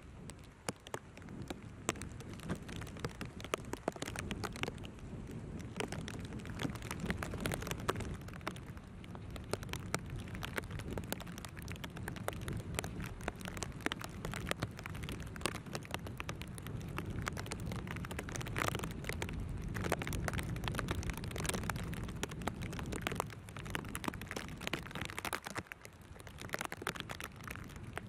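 Rain, heard as many sharp drop hits, over a low, uneven rumble of strong wind buffeting the microphone.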